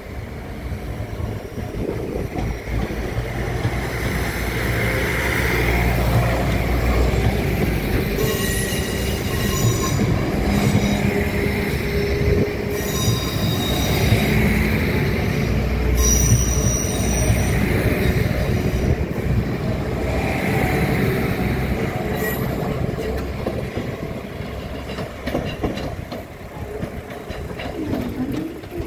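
Translink diesel multiple-unit train passing at close range, its engines running and its wheels rumbling and clacking along the track, with short high-pitched wheel squeals in the middle. The noise builds over the first few seconds and fades slowly toward the end.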